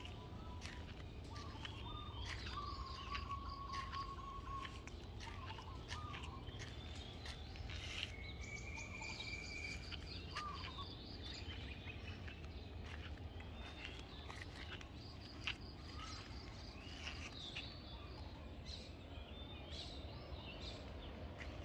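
Birds chirping and whistling, with short calls and a few held whistled notes, over a steady low background rumble. A single brief click comes about two-thirds of the way through.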